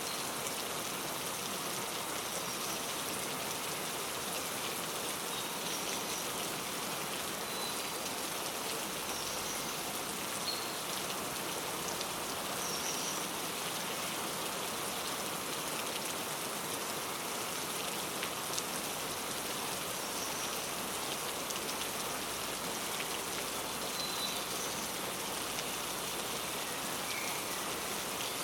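Steady rain falling, with short faint bird chirps high above it every few seconds.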